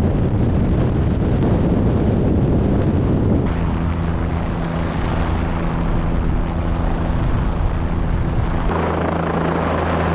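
Helicopter running in flight, its rotor and turbine making a steady loud noise. About three and a half seconds in the sound changes abruptly from a rough rumble to a steady hum with several fixed low tones, and changes abruptly again near the end.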